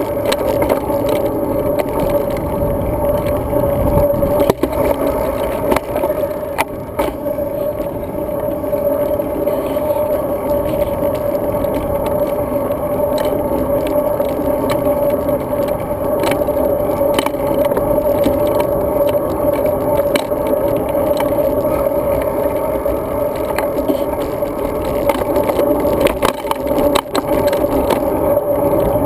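Road bike rolling along: a steady hum of tyres and road with scattered rattling clicks as the bike goes over bumps.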